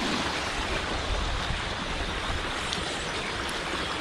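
Rain-swollen creek water rushing steadily over and through a dam: an even, unbroken rush, with some low gusts of wind on the microphone.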